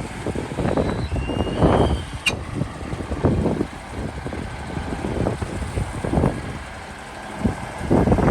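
Heavy diesel construction machinery working, with uneven bursts of noise coming and going. A thin high squeal sounds about a second in, and a sharp click a little after two seconds.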